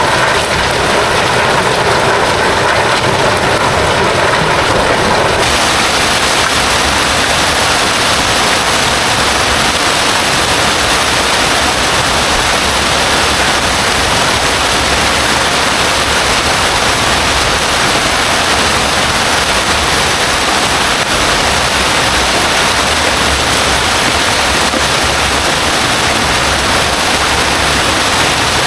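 Heavy rain falling steadily, a loud dense hiss. Its tone changes abruptly about five seconds in, then holds steady.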